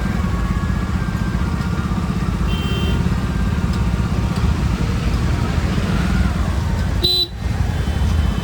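Motorcycle riding through city traffic: a steady low rumble of engine, wind and road noise, with short horn toots from surrounding traffic, one sharp and brief about seven seconds in.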